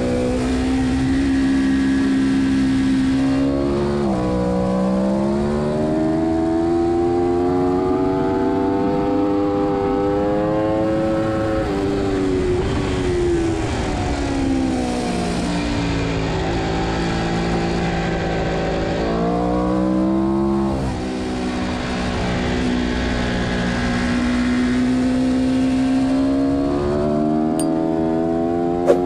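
Aprilia RSV4 APRC's V4 engine at full race pace, heard on board, its pitch climbing under acceleration and falling away under braking for corners, with wind noise throughout. There is a sharp click near the end.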